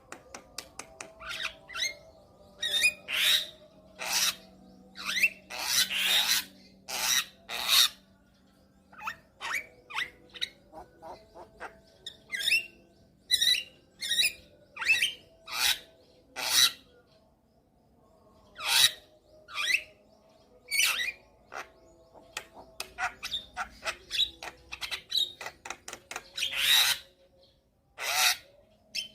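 Javan myna (jalak kebo) singing: a fast, irregular string of short, harsh notes and squeaky whistles, with a couple of brief pauses.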